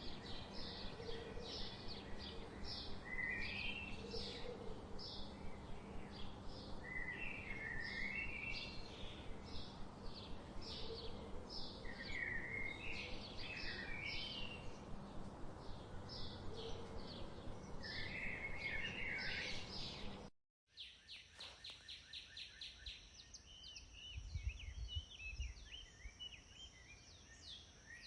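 Birds chirping and singing, quick repeated high chirps with warbling phrases now and then, over a steady background hiss. About twenty seconds in, the sound cuts out for a moment and a quieter bird ambience carries on, with a steady high whine and a few low thumps.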